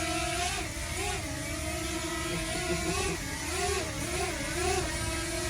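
A motor humming steadily, its pitch wavering up and down every second or so.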